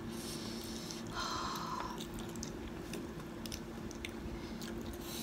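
Close-up chewing and small wet mouth clicks as spicy fried chicken and potato wedges are eaten, over a steady low hum. A brief squeak about a second in.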